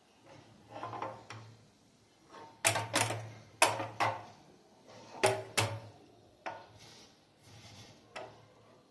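Metal cake tin knocking and clinking on a gas stove's burner grate as it is handled. There are several sharp knocks, bunched in the middle, with a couple of lighter ones near the end.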